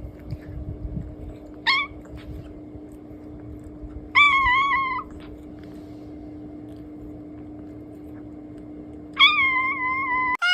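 Domestic cat meowing three times: a short meow, then two longer drawn-out meows that start high and settle onto a held pitch. A steady low hum runs underneath.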